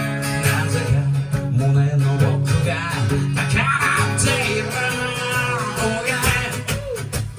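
Live band music: strummed guitar over a steady bass line, with a high melodic line that bends and wavers in pitch.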